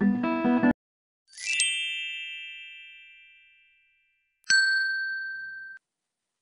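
Acoustic guitar music stops abruptly just under a second in. Then a shimmering chime swells in and rings away over about two and a half seconds, followed by a single bright ding that rings for about a second and cuts off.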